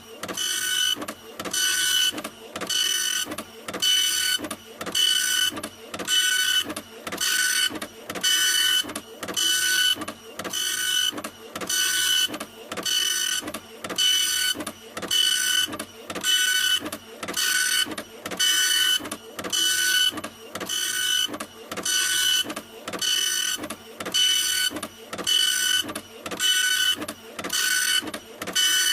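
Printer running continuously, its mechanism making short, evenly repeated whining passes a little faster than once a second, each pass carrying steady high tones.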